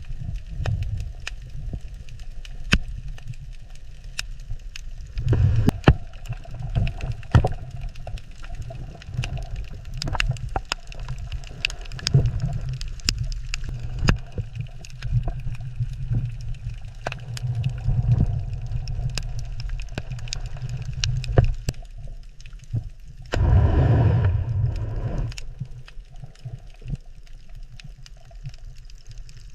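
Water ambience: a low rumble and gurgle of moving water, with scattered sharp clicks and crackles throughout and a louder surge about three-quarters of the way through.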